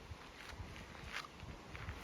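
Faint outdoor ambience: a low rumble with a few short high chirps, the clearest about a second in.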